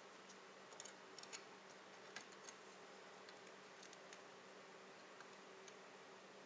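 Near silence: a faint steady electrical hum and hiss, with a scatter of small, light clicks, most of them in the first two and a half seconds.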